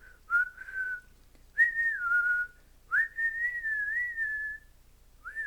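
A person whistling slow single notes to coax a pet canary into singing: four phrases with gentle slides in pitch, the longest lasting about a second and a half.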